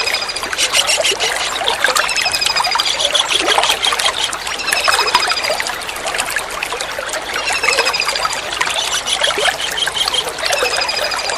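Steady trickling water with a kingfisher's (tengkek udang) high, thin call phrases repeating every two to three seconds. The phrases are short, slightly falling notes, and some are quick runs of short notes.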